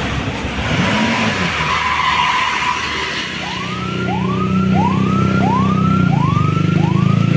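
A heavy vehicle's engine running under load, its hum strengthening about three seconds in, joined by an electronic siren-style whoop that rises in pitch and repeats about every 0.6 seconds.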